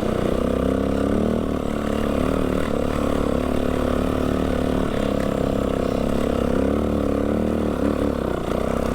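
Dirt bike engine running steadily under way, its pitch rising and falling a little with the throttle, near the end especially.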